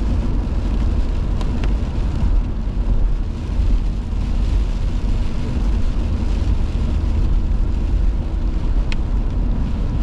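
Steady low rumble of a car's road and engine noise heard from inside the moving car, with a few faint ticks.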